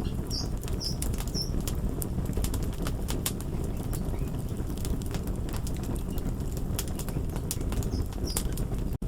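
Crackling fire: a steady low rumble with frequent sharp pops and snaps. A few faint high chirps sound early and again near the end, and the sound cuts out for an instant just before the end.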